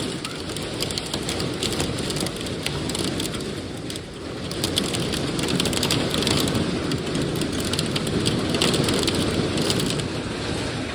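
Heavy rain and hail pelting down in a summer storm: a dense rush, with many sharp ticks of hailstones striking. The downpour eases briefly about four seconds in, then comes on harder.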